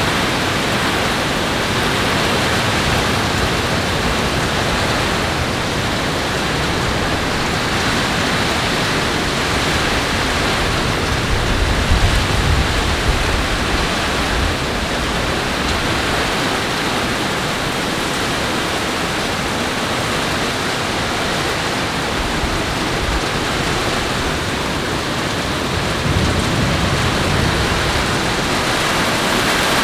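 Heavy rain in a thunderstorm, a steady loud rushing hiss, with a low rumble swelling briefly about twelve seconds in and again a little before the end.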